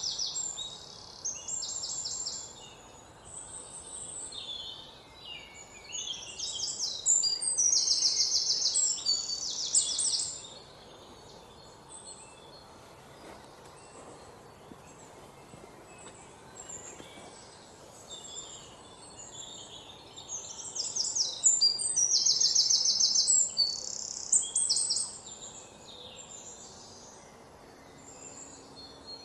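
Birds calling in high, rapid trills and chirps that come in several loud bursts with a long lull in the middle, over a faint steady outdoor hiss.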